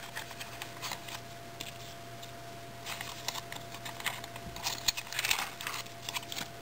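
Light clicks and rustling of small toy cooking props being handled, in scattered clusters, over a faint steady hum.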